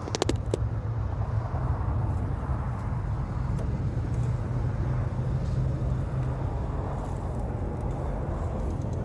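Diesel truck running with a steady low drone, a few sharp clicks just after the start.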